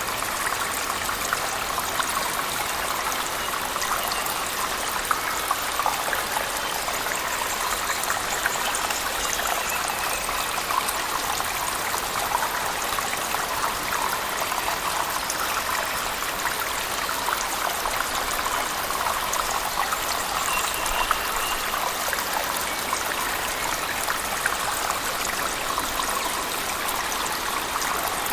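Steady splashing and pouring of a waterfall in a cave mixed with heavy rain, an even wash of water noise with fine splatters.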